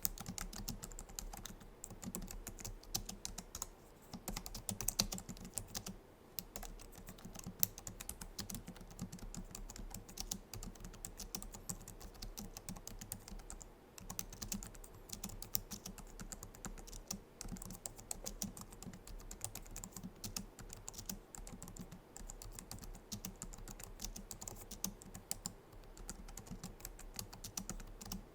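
Steady typing on a Logitech MX Keys keyboard: a quick, continuous run of soft key clicks, with brief pauses now and then.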